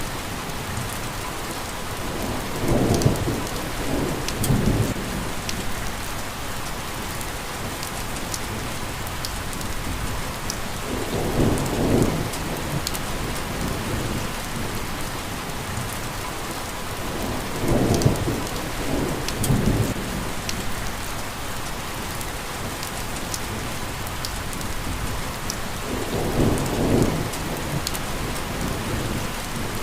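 Steady rain falling with scattered drop ticks, and low rumbles of thunder rolling in four times.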